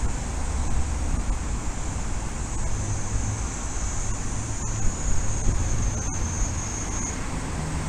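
Steady noise of a heavy thunderstorm: a downpour's hiss over a low rumble, with no sharp thunderclap. A thin high whine is heard for a few seconds in the middle.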